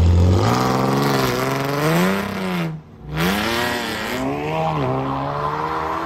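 Sports car engines revving hard, the pitch swinging up and down in repeated surges. The sound breaks off briefly about three seconds in, then another car revs and accelerates away.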